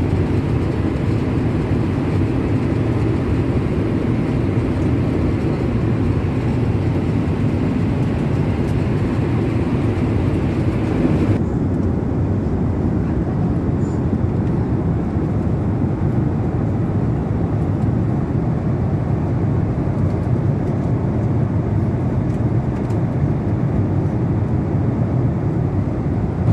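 Steady low rushing cabin noise of a Boeing 777-300 airliner in cruise flight. About eleven seconds in the hiss suddenly turns duller, with the low drone going on unchanged.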